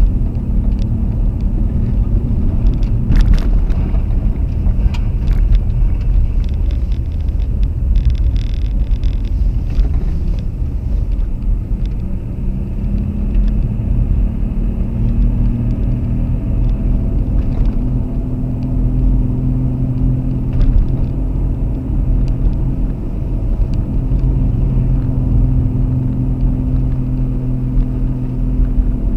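Car driving: steady engine and road rumble, the engine note climbing a little about halfway through. A few short clicks sound early on and again around a third of the way in.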